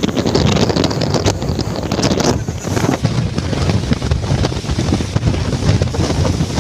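Gusty wind buffeting the microphone in a loud, uneven low rush, the wind that comes up before rain.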